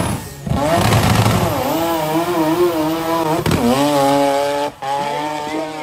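Engine of a small modified Suzuki Samurai-type 4x4 revving high as it accelerates hard, the pitch wavering up and down; it cuts out briefly about three and a half seconds in, then picks up again.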